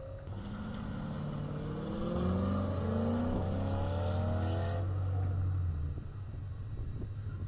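A car's engine accelerating hard across the autocross course, its note climbing steadily in pitch for about four and a half seconds, then cutting off abruptly as the driver lifts off.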